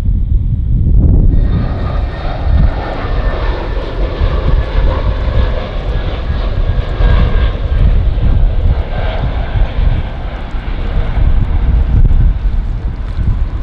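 Jet airliner's engines passing close, the noise swelling in about a second in and holding as a loud rush with faint steady whining tones over a deep rumble. Wind buffets the microphone throughout.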